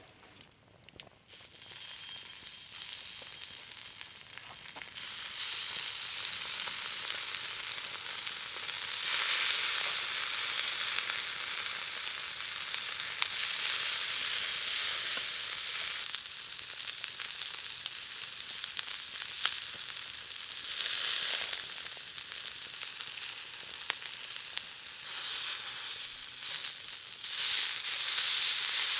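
Food sizzling on a hot iron pan, a steady frying hiss that starts faint, grows louder about nine seconds in, and surges twice near the end.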